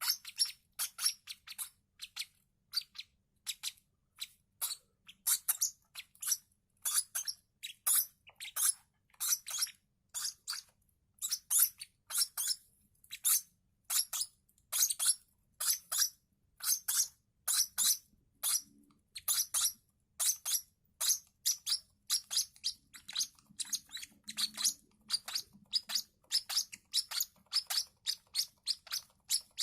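Baby lovebird chicks' high-pitched begging cheeps, short chirps repeated about two or three a second without a break.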